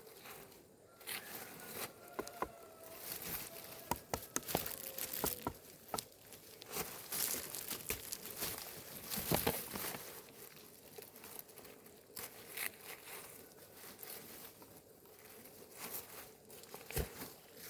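Irregular rustling and crinkling handling noises with scattered sharp clicks and knocks, busiest in the middle.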